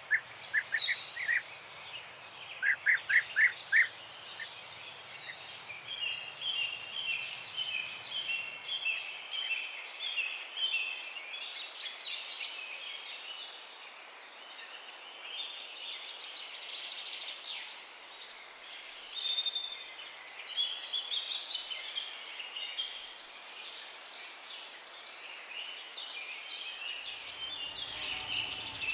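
Several small songbirds chirping and twittering together, a dense overlapping mix of high calls over a faint steady hiss. About three seconds in, one bird gives a quick run of five clear notes.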